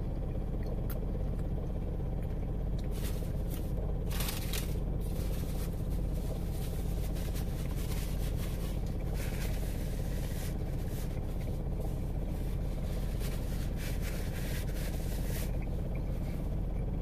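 Steady low drone of a car engine idling, heard inside the cabin. Scattered faint crackles and scrapes over it from chewing and handling a slice of pizza, mostly between about 3 and 15 seconds in.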